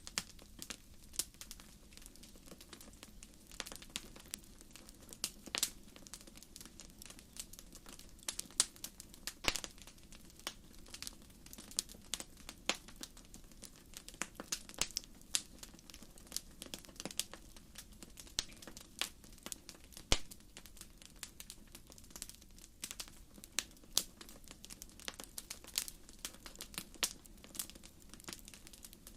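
Wood fire burning, with frequent irregular crackles and pops of burning logs over a soft steady hiss of the flames.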